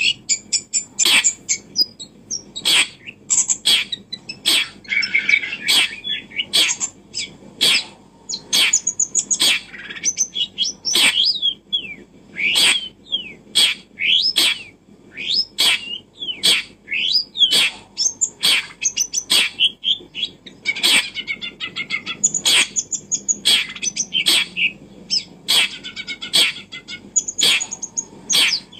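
Small birds chirping and twittering continuously, with short, sharp calls coming about once or twice a second and quicker trills between them.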